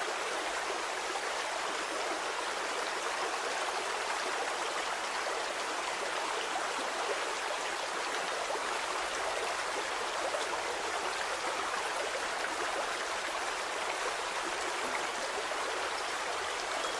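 A stream of flowing water, a steady babbling and rushing with no breaks.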